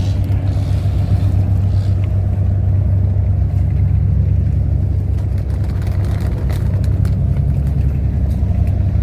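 A large engine running with a deep, steady drone that holds evenly throughout.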